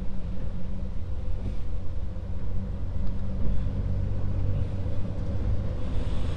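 Scania S500 truck heard from inside the cab while driving: a steady, low engine and road drone.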